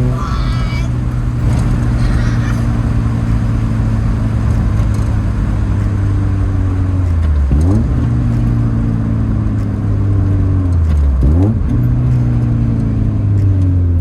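1992 Mazda Miata's 1.6-litre four-cylinder engine running through a newly fitted ISR aftermarket exhaust. The engine note holds steady and drifts slowly lower, then twice dips briefly and quickly climbs back up, once about halfway through and again near the end.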